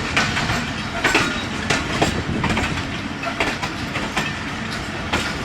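Passenger train coaches moving over the track, their wheels clacking over rail joints in an uneven rhythm above a steady rolling rumble.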